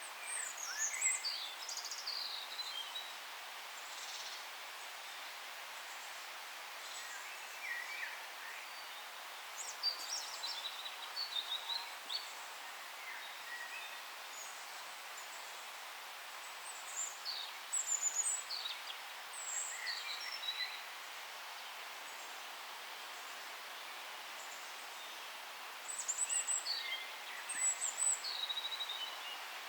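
Songbirds singing in short bursts of high chirps and quick falling notes, a new phrase every eight or nine seconds, over a steady forest hiss.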